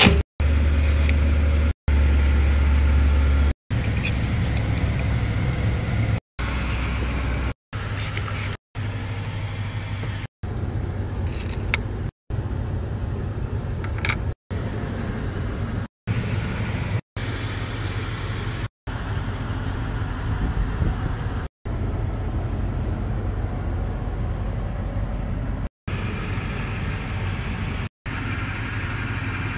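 A truck's engine running steadily at low revs, heard as a string of short clips broken by brief silent cuts every one to two seconds.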